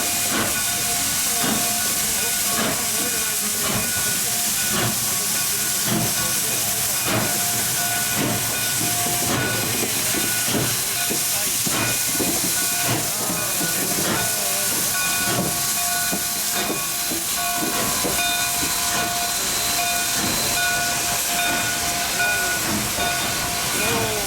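Canadian Pacific 2816, a Hudson steam locomotive, hissing steam steadily as it pulls into a station. Several steady high tones run over the hiss, with irregular clanks throughout.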